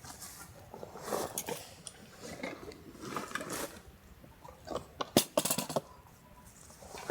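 Camping gear being handled: irregular rustling and light metallic clinks, with one sharp click about five seconds in.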